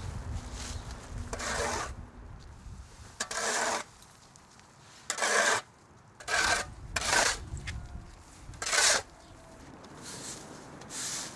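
A series of short rasping scrapes, several separate strokes at uneven gaps of one to two seconds.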